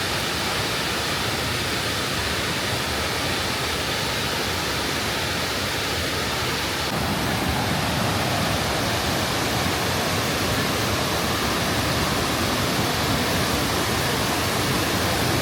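Steady, dense rushing of a large waterfall, Mae Ya's tall multi-tiered cascade, growing a little louder about seven seconds in.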